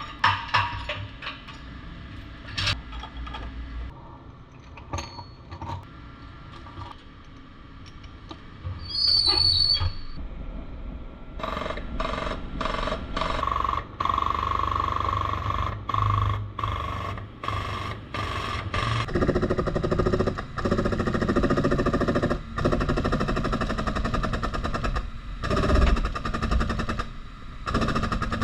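Collision-repair pulling work on a car body: scattered metal clanks and knocks, then a dense, rapid mechanical chatter for the last several seconds.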